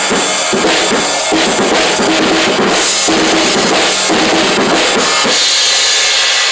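A drum kit played hard, with a steady run of bass drum, snare and tom strokes about three a second under ringing cymbals. The cymbals ring on and start to fade near the end.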